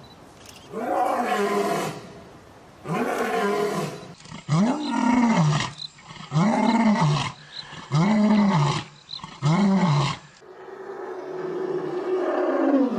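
An animal calling over and over in drawn-out, roar-like cries. Each call rises and then falls in pitch, and one longer, steadier call comes near the end.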